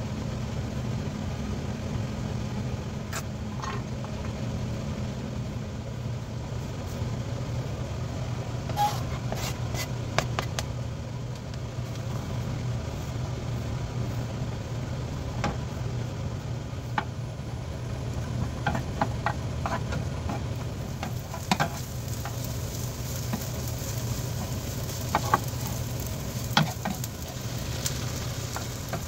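Food sizzling in a hot oiled square nonstick pan: diced onion and carrot, then rice with tteokbokki broth, the sizzle growing louder in the last third. Occasional sharp clicks and scrapes of a utensil on the pan, over a steady low hum.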